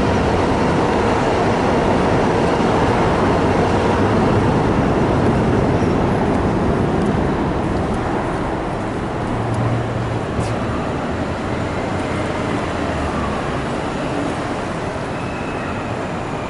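Train running on rails, a steady loud rumble and wheel noise that slowly grows quieter after about six seconds.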